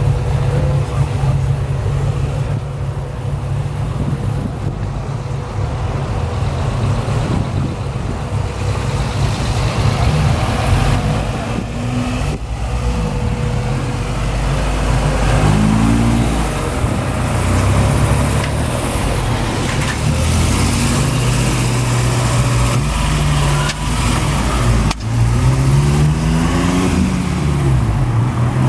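Car engines running, with the revs rising and falling twice, once about halfway through and again near the end.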